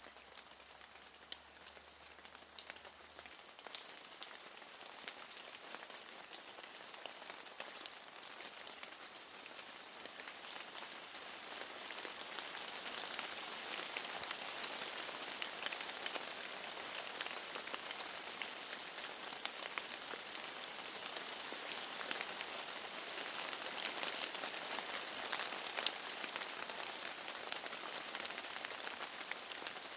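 Steady rain with many small drops pattering against a window, growing louder about twelve seconds in.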